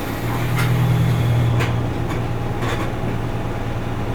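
Cabin sound of an Isuzu Erga Mio city bus under way: a steady low engine drone that grows louder about half a second in and eases back about a second later, with a few short rattles or knocks, roughly one a second.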